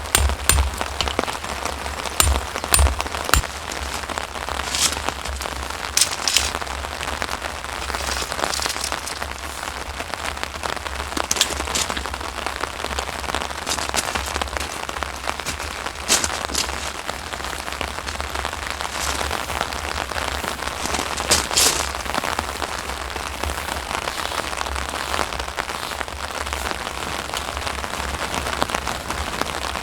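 Steady rain falling, with louder single drops striking every few seconds.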